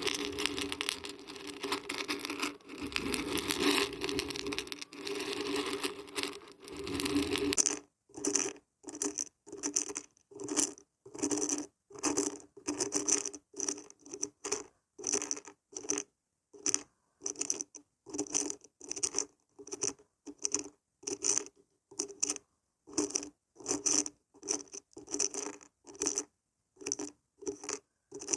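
Dried beans and barberries rattling as they are shaken: a continuous rattle for about the first eight seconds, then short separate shakes, about two a second.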